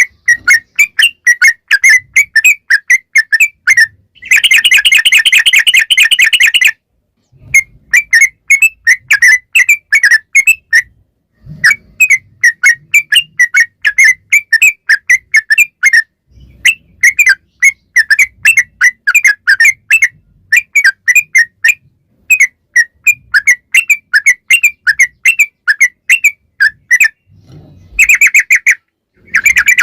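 Yellow-vented bulbul (trucukan) singing: loud strings of short chirping notes, about four to five a second, in phrases broken by short pauses. Twice, about four seconds in and near the end, the notes run together into a fast continuous trill, the long 'ropel' roll.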